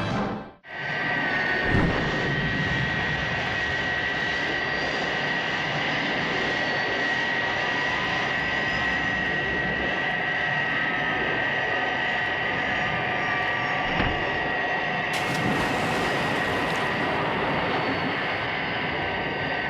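Jet-engine sound effect of a flying rescue craft: a steady engine noise with a high, held whine. It cuts out sharply for a moment just after the start, then returns.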